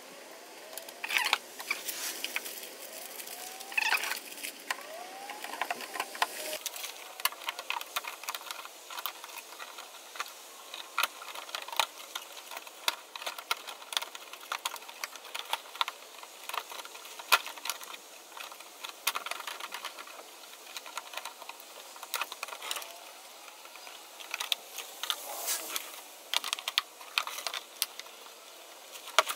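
Irregular plastic clicks and rattles as zip ties are threaded and pulled tight to hold a loose plastic engine undershield in place.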